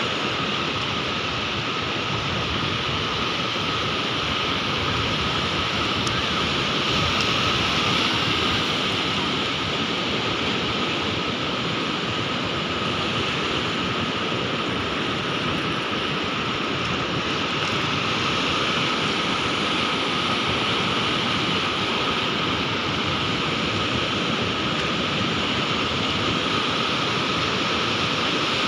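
Sea waves breaking in a continuous rushing surf, swelling gently twice.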